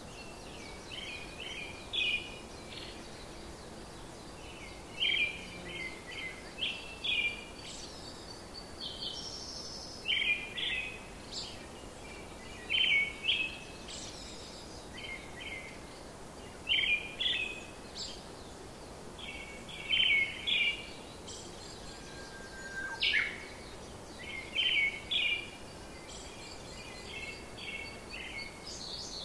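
Birds chirping in short repeated phrases, a cluster of quick high notes every second or two, over a steady background hiss.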